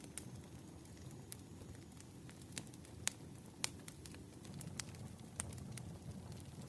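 Wood fire crackling: irregular sharp pops and snaps over a soft low rumble, with the two loudest pops close together midway.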